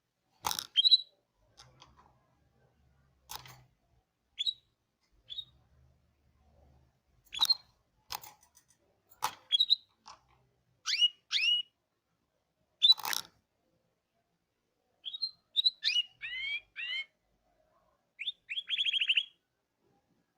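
Canary calling in short, separate chirps and whistled notes with gaps of a second or so between them, ending in a quick trill of about ten rapid notes.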